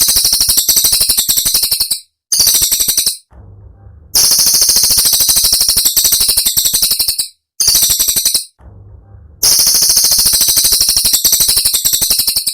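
Cililin song bird giving its rapid-fire 'tembakan' call: very fast, sharp, high-pitched trills in bursts of one to three seconds with brief pauses between them.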